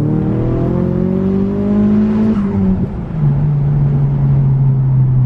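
Nissan Silvia S15's turbocharged SR20DET four-cylinder engine heard from inside the cabin, pulling hard with its note rising steadily. About two and a half seconds in, the pitch drops at a gear change, then the engine holds a steady lower note.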